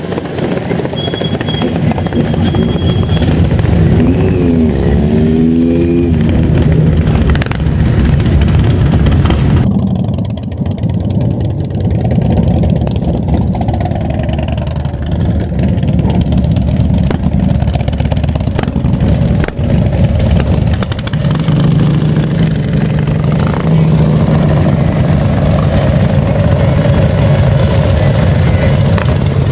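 Motorcycle engines running loud as bikes ride past, with one engine revved up and down several times about four to six seconds in.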